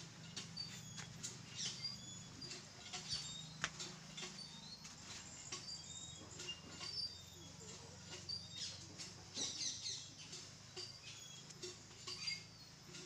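Small birds chirping: many short, high chirps scattered throughout, with a few light clicks over a faint, steady low hum.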